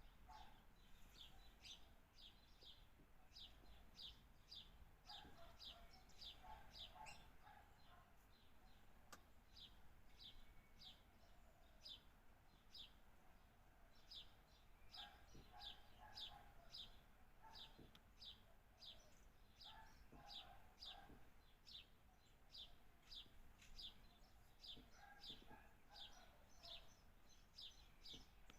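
Birds chirping, a fast run of short high chirps about three to four a second, broken every few seconds by bursts of lower chatter.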